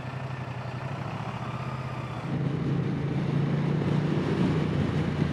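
Moto Guzzi V100 Mandello's transverse V-twin engine idling, then getting louder about two seconds in as the bike pulls away.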